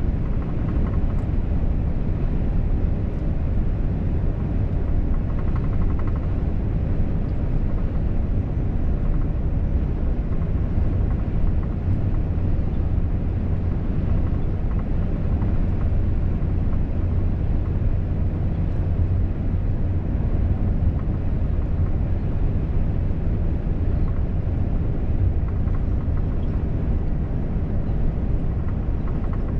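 Volvo FH truck driving at a steady speed: an even low drone of engine and tyres on the road, with no change in pace.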